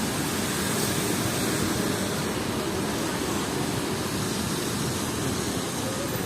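Steady city street noise: a low rumble, typical of road traffic, under an even hiss.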